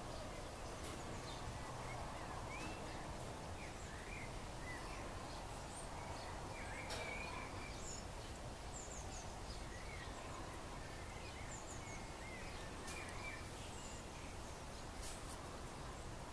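Steady background hiss and low rumble with many short, faint bird chirps scattered through it and a few light clicks.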